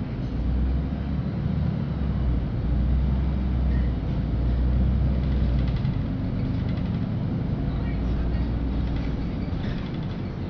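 Cabin of a LiAZ-5292.65 city bus under way: a steady low engine and road rumble, louder through the middle.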